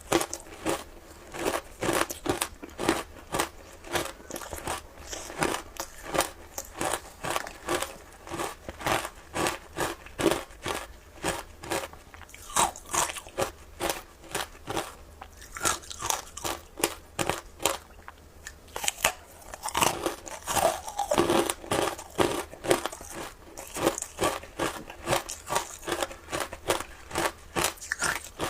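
Frozen ice with matcha and milk powder being bitten and chewed close to the microphone: a steady run of sharp crunches, about two or three a second.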